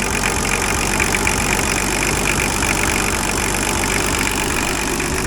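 Nissan RD28 six-cylinder diesel engine idling steadily, just brought back to running, with a rapid, even diesel clatter.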